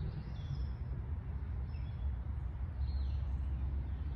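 Small birds calling in short chirps and quick falling notes, several times, over a steady low rumble.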